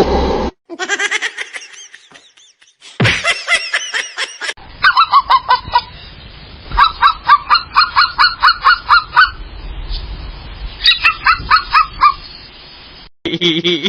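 An animal's loud pitched calls, repeated about four to five times a second in several runs, with abrupt cuts between short clips.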